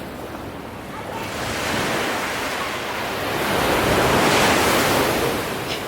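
Ocean waves washing in: the surf noise builds from about a second in, is loudest around four seconds in, then eases off.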